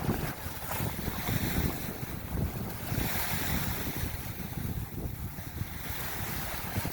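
Wind blowing and buffeting the microphone, with a steady rush of water beneath it.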